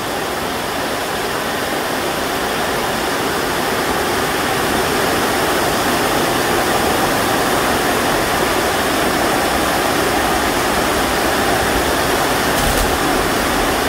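Heavy rain pouring steadily, an even rushing hiss that grows slightly louder over the first few seconds.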